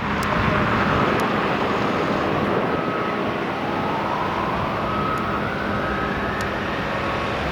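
Steady vehicle engine roar, with a whine that rises in pitch through the middle.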